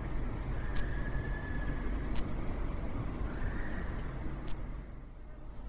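Steady low rumble of road traffic, with a few sharp clicks, dying down about five seconds in.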